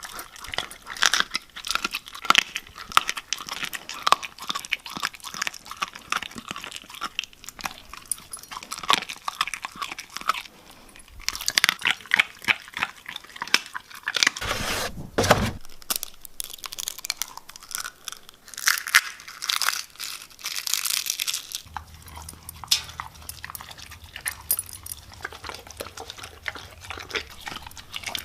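A dog chewing, with irregular crunching bites.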